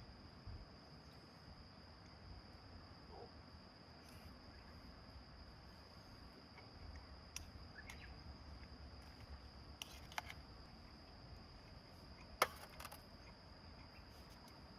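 Faint, steady high-pitched insect trill, like a cricket calling, with a few sharp clicks, the loudest about twelve seconds in.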